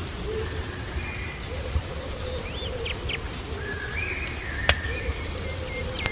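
Small birds chirping and giving short whistled calls, with a low wavering call underneath, over a steady noise of rain and fireplace crackle. A sharp pop about three-quarters of the way through is the loudest moment.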